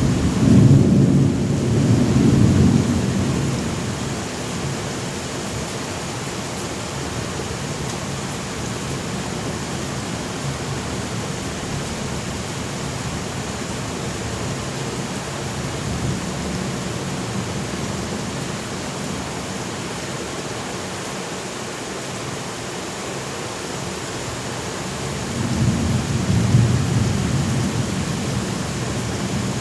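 Thunderstorm with steady rain falling and rolling rumbles of thunder, loud in the first few seconds and again near the end.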